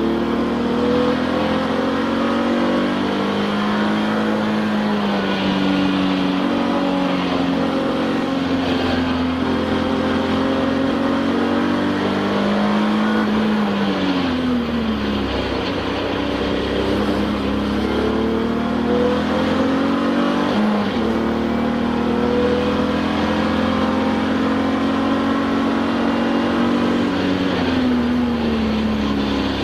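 Touring race car's engine heard from inside the car at racing speed, its pitch climbing and falling as it is driven through the gears, with several sharp drops in pitch at gear changes and braking.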